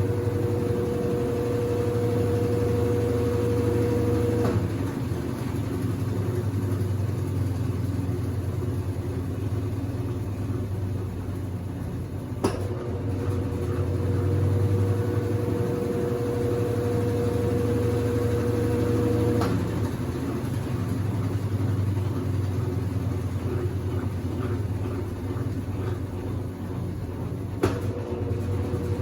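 Consul CWC08 washing machine running a wash cycle: a steady low hum with a motor tone that switches on and off every several seconds, each change marked by a sharp click.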